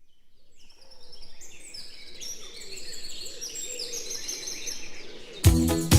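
Birds chirping and singing: many short, high chirps, several falling in pitch, fading in over the first second. About five seconds in, music with a strong beat starts abruptly.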